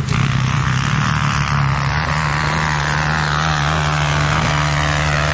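Trail motorcycle engine running under steady throttle, with a higher whine that slowly drops in pitch through the middle.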